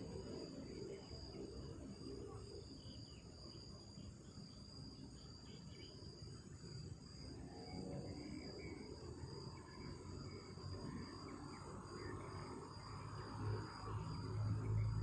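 Steady night insect chorus, crickets chirring in one continuous high note, over a low rumble. A low hum comes in near the end.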